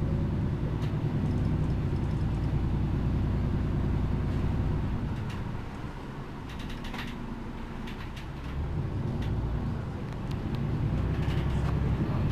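MAN Lion's City G articulated bus's diesel engine running under way: it pulls steadily, eases off for a few seconds about halfway through, then pulls again near the end. Clicks, rattles and creaks from the bus body sound over it.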